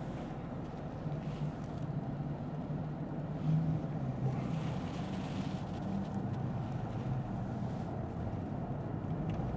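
Steady cabin noise inside a Lexus ES 350 F Sport: a low hum from its V6 and the road, over an even hiss of tyre noise, with a brief swell of hiss about five seconds in.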